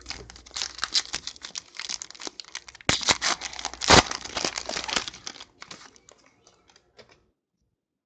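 Trading-card pack wrapper being crinkled and torn open by hand: dense crackling for about five seconds with two sharper rips near the middle, then it stops.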